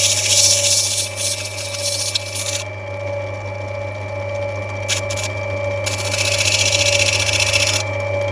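Lapidary grinding wheel running with a steady motor hum, with a piece of opal pressed to it in spells. A high hiss of stone being ground lasts for about the first two and a half seconds, stops, and comes back about six seconds in until near the end.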